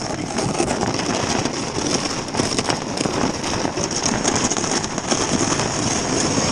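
A sled sliding fast over snow and ice: a steady, rough scraping rush.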